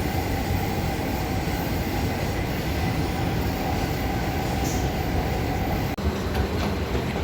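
Washington Metro subway train running, heard from inside the car: a steady rumble with a faint even whine. The sound breaks off abruptly about six seconds in.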